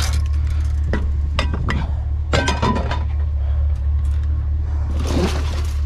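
Pieces of aluminum scrap clinking and knocking together in a handful of short sharp hits, most of them in the first three seconds. Under them runs the steady low hum of the idling truck engine.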